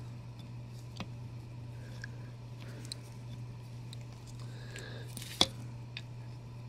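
Hands handling a boxed statue and its plastic packaging: scattered light clicks and soft rustles, with one sharp click about five and a half seconds in, over a steady low hum.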